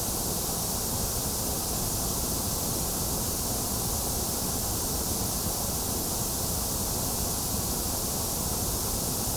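Synthetic white noise: a steady, unchanging hiss, strongest in the bass and the high treble and thinner in the upper midrange.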